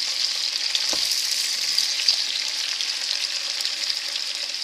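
Green beans and potatoes sizzling in hot olive oil in a pot as they are stirred: a steady crackling hiss, with a single knock about a second in.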